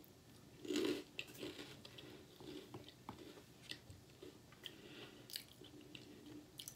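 Chewing a mouthful of dry, crispy oatmeal cereal puffs with a creme coating (Little Debbie Oatmeal Creme Pies cereal), eaten without milk. A firmer crunch comes just under a second in, followed by faint, irregular small crunches as the pieces are chewed.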